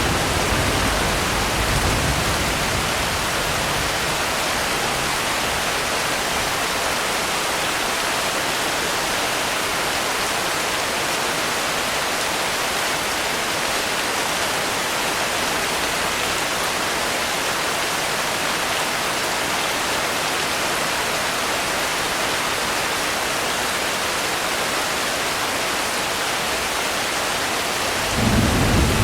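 Steady, heavy rain hiss, with a low rumble of thunder at the start and another near the end.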